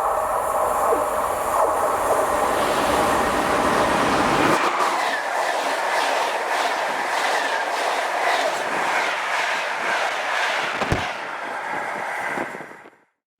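Train passing close by at speed: a steady whine for the first few seconds, then a rapid, regular clatter of wheels over the rails that cuts off abruptly near the end.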